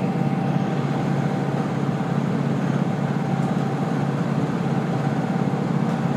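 Diesel railcar under way, heard from inside the cabin: a steady low engine drone mixed with the running noise of wheels on rail, with a faint steady whine above it.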